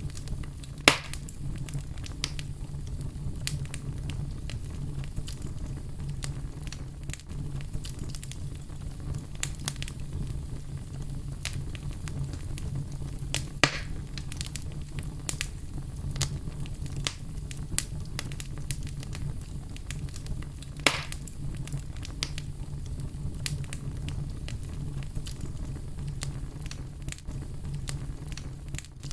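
Wood fire crackling: a steady low rumble of the flames with frequent small crackles and three sharper pops, one about a second in, one near the middle and one about two-thirds through.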